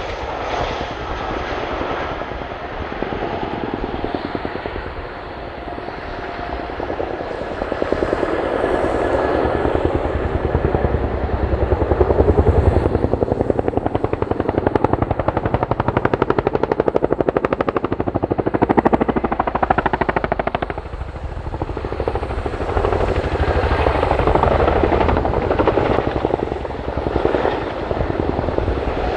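Boeing CH-47D Chinook tandem-rotor helicopter flying, its rotors beating in a rapid steady thump over the turbine noise. It grows louder about a third of the way in and again later, then eases off.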